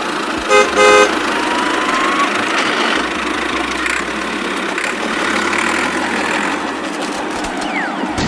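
Tractor engine running steadily, with two short horn toots just under a second in.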